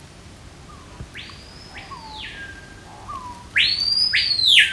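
A bird giving long, loud whistles, each sweeping steeply up, holding high and then dropping away. One comes about a second in, then two louder ones close together near the end, with a few softer, lower down-slurred notes between.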